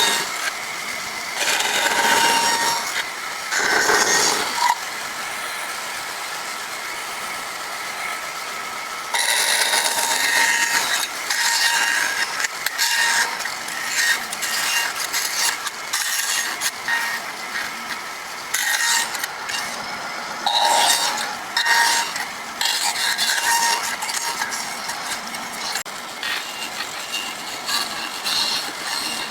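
Chainsaw running steadily and cutting into wood in repeated surges, each lasting a second or more, between lighter stretches.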